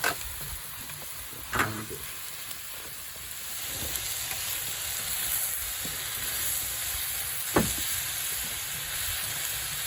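Pork belly and kimchi sizzling and frying on an iron griddle plate as they are stirred together. The sizzle is steady and grows a little louder about four seconds in, with two short sharp clicks.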